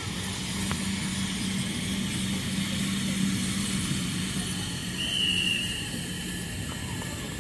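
A motor running steadily under a busy outdoor hubbub, fading near the end, with a brief high squeal about five seconds in.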